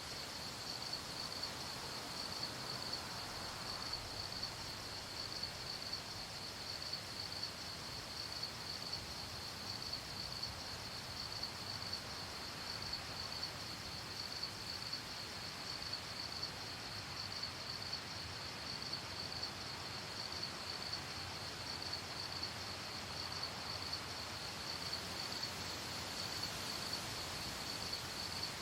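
Crickets chirping steadily in a high, evenly pulsing trill over a faint, even background hiss.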